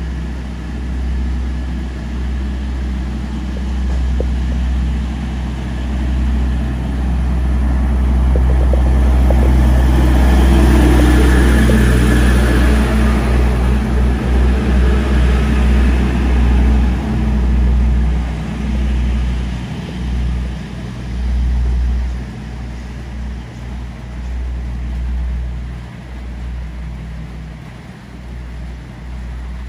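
A Hunter railcar diesel multiple unit passing close by: its engine and wheels on the rails build to a peak about halfway through, with a few wheel clicks, then fade as it draws away.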